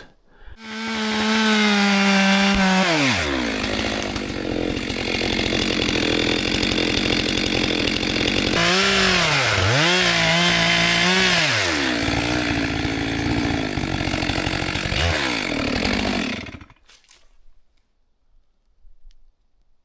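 Chainsaw revving high, then dropping in pitch as it bogs into the cut through the trunk of an uprooted tree. It runs under load with its pitch dipping and recovering a couple of times, then shuts off suddenly about three-quarters of the way through.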